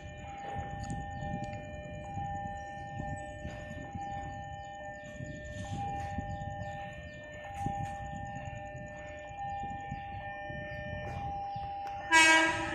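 Railway level-crossing warning alarm sounding a steady, repeating electronic tone over a low rumble, then a short, loud blast of a train horn near the end.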